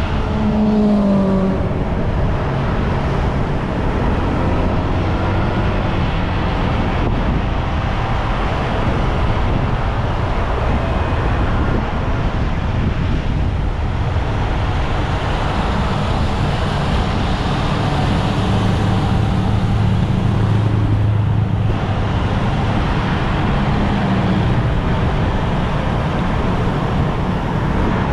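Motorbike on the move: a steady engine hum under heavy rushing noise of wind and road. The hum strengthens for a few seconds in the middle.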